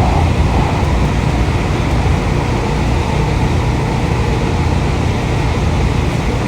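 Interior of a moving LA Metro light rail car: a steady low rumble of the train running, with the car's air-conditioning blowing.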